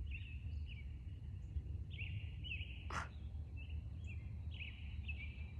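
A bird calling over and over in short, high chirping notes, with a steady low rumble underneath and one sharp click about three seconds in.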